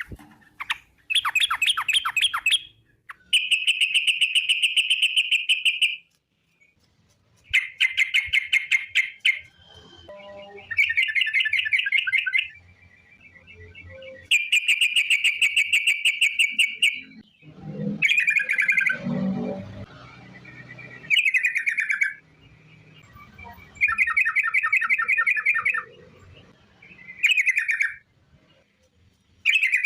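Yellow-vented bulbul (trucukan) singing in bursts of rapid, chattering trills, each lasting one to three seconds with short pauses between. This is the long 'ropel' song used as a lure to set other bulbuls calling.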